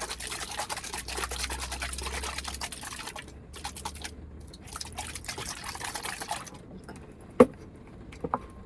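A chilled sparkling grape jelly drink being shaken hard in two bouts, the jelly and liquid sloshing and rattling in its container, each bout stopping abruptly. A single sharp knock follows about seven seconds in.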